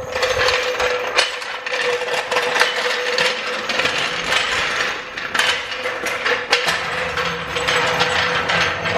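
A car jack being handled and moved into place, its metal parts rattling and clicking continuously.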